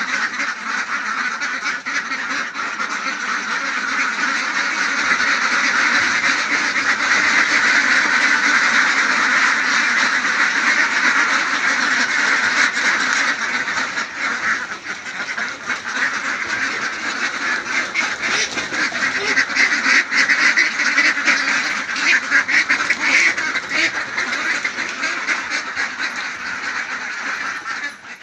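Many ducks quacking together in a dense, continuous chorus of overlapping calls, growing a little louder a few seconds in.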